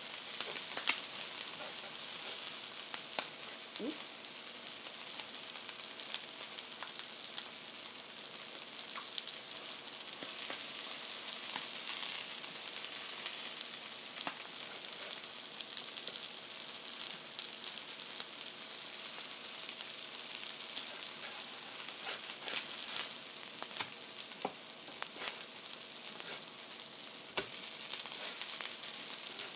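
Rolled chicken birria tacos sizzling steadily in oil on a flattop griddle, with scattered small pops and clicks.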